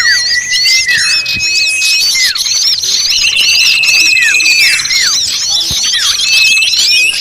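Bird-lure recording of many small birds calling at once: dense overlapping chirps, long level whistles, several whistles sliding down in pitch, and a fast trill running through the middle.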